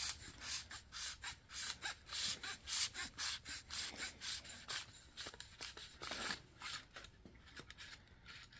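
Grease gun barrel being twisted off its head to change the cartridge: a run of short rubbing, scraping strokes, about two to three a second, that thins out near the end.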